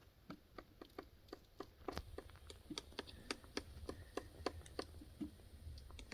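Woodpecker pecking into a tree while foraging for food inside it: a faint, irregular run of sharp taps, about three a second.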